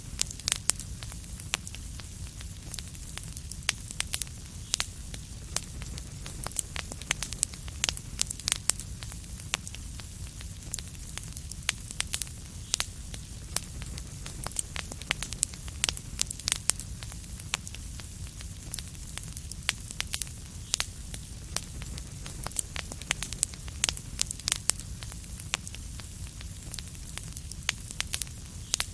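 Wood fire crackling in a fireplace: a steady low rumble and hiss with frequent sharp, irregular pops and snaps.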